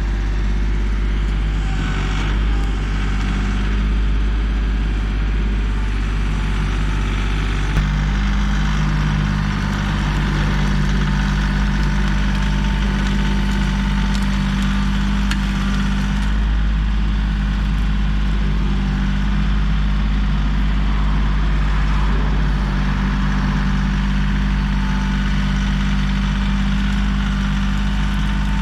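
Kioti CK3510 compact tractor's diesel engine running steadily. A sharp click comes about eight seconds in, and the engine note shifts right after it.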